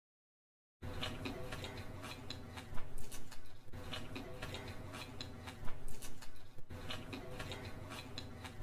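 Close-miked chewing of a mouthful of saucy noodles and chilli chunks, with wet clicking mouth sounds; after a second of dead silence it starts, and the clicks come thickest and loudest twice, about three and six seconds in.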